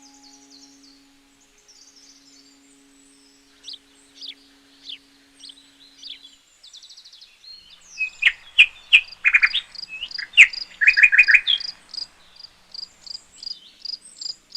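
Several small birds chirping and calling, faint at first, then a burst of louder, sharper calls about halfway through. One bird then keeps repeating a short, high note about twice a second.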